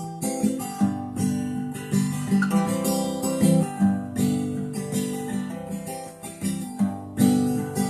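Acoustic guitar strumming chords in a steady rhythm, an instrumental break with no singing.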